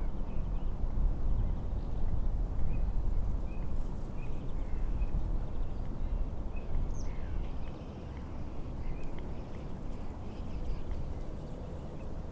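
Wind and waves make a steady low rumble on the lake, while birds, likely waterfowl, give short scattered calls now and then.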